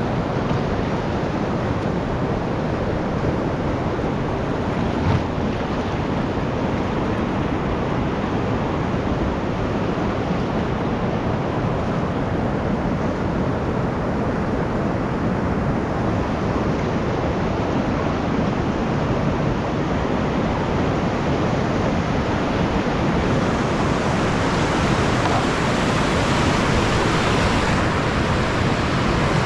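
Rushing whitewater of a mountain creek, a steady noisy wash that gets brighter and fuller over the last several seconds, with a single light knock about five seconds in.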